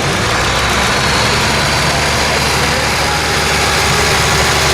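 Antique tractor engine running steadily: a loud, constant low drone.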